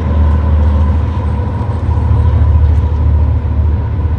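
Freight train passing behind several diesel locomotives: a steady, loud low rumble.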